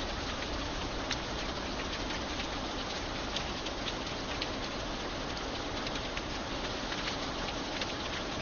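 Steady rain, an even hiss, with many separate drops ticking sharply as they hit a surface.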